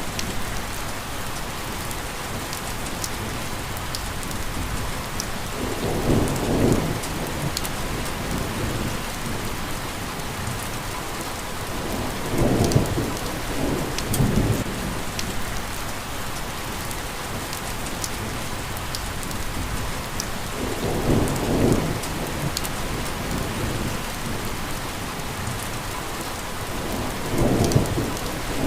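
Steady rain, an even hiss of drops, broken five times by brief low rumbles of about a second each.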